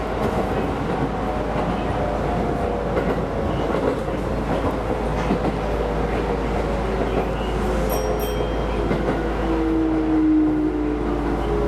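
Keisei Line electric train running on the rails, with its electric motors whining in several tones that fall steadily in pitch as the train slows.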